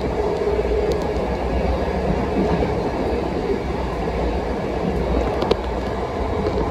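Passenger train running steadily along the track, a constant rolling rumble and hum, with a couple of faint clicks from the wheels, about a second in and again near the end.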